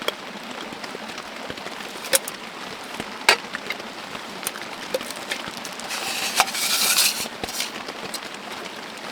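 Metal parts of a Trangia camping cook set clinking as they are handled and set up, a few sharp clinks spread through, with a louder hiss lasting a second or so about six seconds in. Steady rain patter runs underneath.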